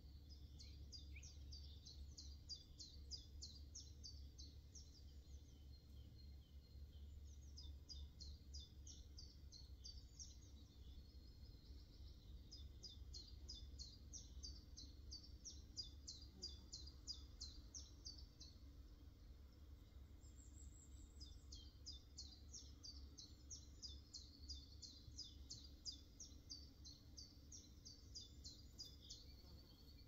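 A songbird singing faintly, phrase after phrase of rapid high notes, each phrase a few seconds long with short pauses between. A low steady rumble runs underneath.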